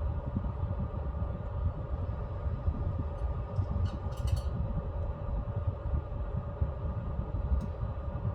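Pellet stove running: a steady low rumble from its fans and burning pellets, with a steady hum over it. A few light ticks come about four seconds in and once more near the end.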